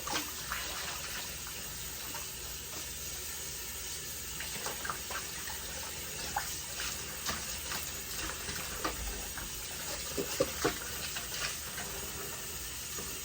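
Water running steadily from a tap, with scattered small splashes and knocks as wigs are rinsed under it.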